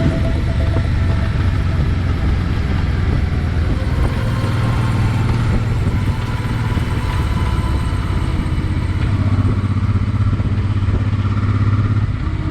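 Honda NT650V Deauville's V-twin engine running under way, a steady low drone over even road and wind-type noise.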